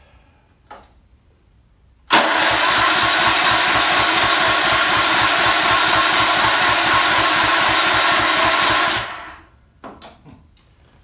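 Hammerhead go-kart's small gas engine, choked, catches suddenly on the electric start about two seconds in. It runs at a steady, even level for about seven seconds and then dies away. The mechanic takes the engine's trouble for carburetor flooding, with gas he can smell.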